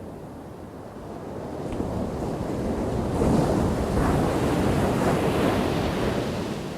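Ocean wave breaking and washing ashore. The surf noise builds over a couple of seconds, is loudest around three to five seconds in, then ebbs away near the end.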